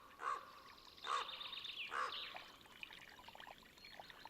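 Soft water splashes in a bog, three short ones about a second apart, with a faint quick twittering of a bird.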